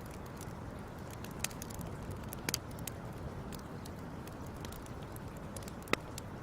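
Wood fire crackling: irregular sharp pops and snaps over a steady low rumble, with the loudest pop about six seconds in.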